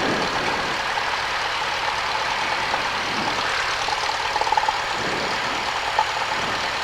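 Cessna 172's piston engine running steadily at low taxi power.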